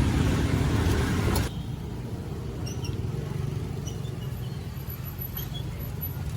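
Street ambience: a steady low rumble of traffic noise. It is loud at first and drops abruptly about one and a half seconds in, leaving a quieter rumble with a few faint high chirps.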